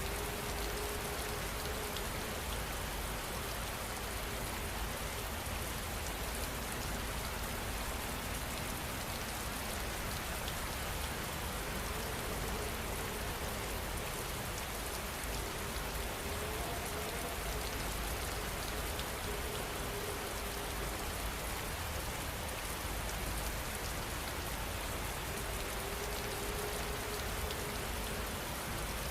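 Steady heavy rain falling, an even, unbroken hiss of dense raindrops.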